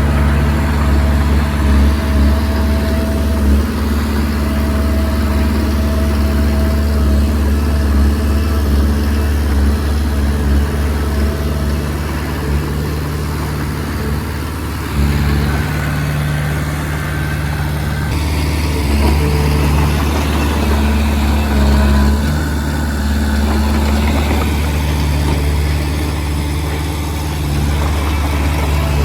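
Heavy diesel engine running steadily at a low, even pitch, easing off briefly about halfway through and then picking up again.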